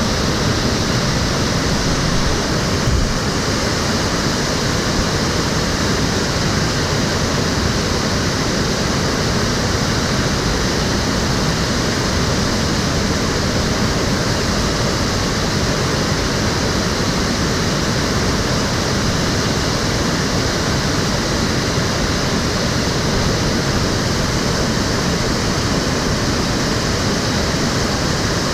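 Water of the Cheonggyecheon, an urban stream, flowing with a steady rush. A brief low knock comes about three seconds in.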